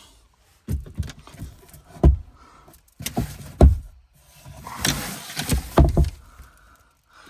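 Truck camper storage compartments and cabinet doors being handled: a series of knocks and thumps as doors and lids are opened and shut, with a scraping rattle in the middle.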